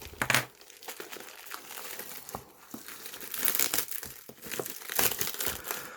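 Package wrapping being handled and pulled open by hand: irregular crinkling and rustling with some tearing, louder in spells about halfway through and near the end.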